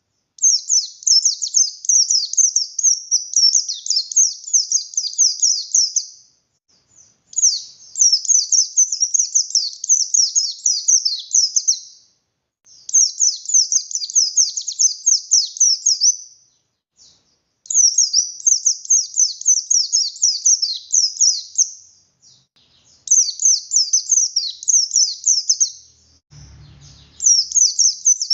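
Buxtoni white-eye (pleci) singing: loud bouts of rapid, high, chattering notes, each lasting about four to five seconds with a short pause between them. A brief low thump comes near the end.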